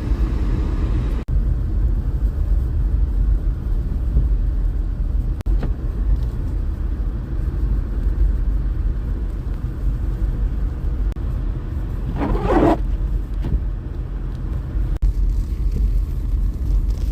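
Steady low rumble of a car being driven, heard from inside the cabin. There is a brief voice-like sound about twelve seconds in.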